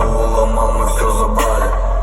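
Bass-heavy music played loud through a car audio system. A Ural TT subwoofer, powered by a Ural Pobeda four-channel amplifier, holds a deep, steady bass note under sharp beat hits.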